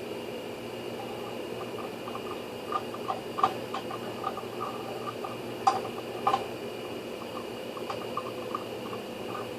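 Light clinks and taps of small hard parts being handled, with three sharper knocks about a third and two thirds of the way through, over a steady hum.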